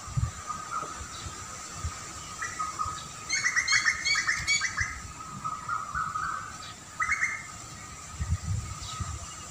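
Wild birds chirping, with a quick run of about eight bright notes in the middle and scattered shorter calls around it, over a steady high tone. Low rumbles come briefly at the start and again near the end.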